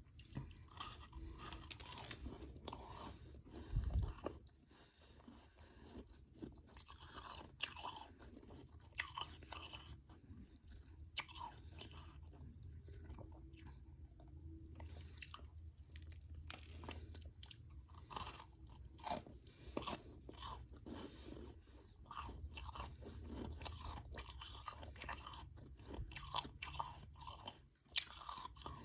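Close-up chewing and crunching of frozen powdery freezer-frost ice with harder chunks: dense, irregular crunches bite after bite. A low thump comes about four seconds in.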